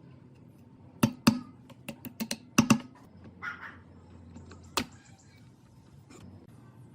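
A quick run of sharp clicks and knocks of hard objects, about ten in two seconds, then a brief scrape and one more knock a little later.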